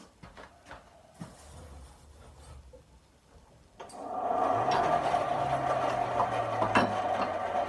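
Small shop noises, then a click about four seconds in as an electric machine switches on. It runs up to speed and settles into a steady hum with a whine.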